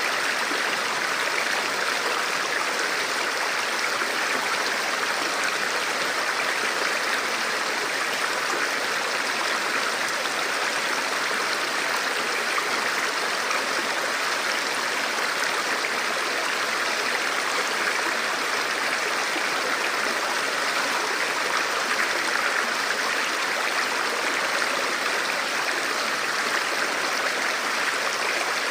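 Forest river or stream flowing steadily over rocks, a continuous rushing of water with no breaks.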